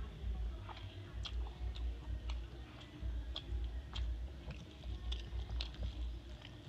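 Close-up eating sounds: chewing with many short wet mouth clicks and smacks as a mouthful of rice and curry is eaten by hand, over an irregular low thudding.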